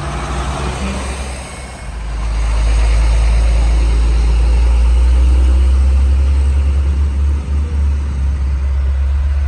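Heavy truck diesel engine running close by, a deep low rumble that swells much louder about two seconds in and then holds steady.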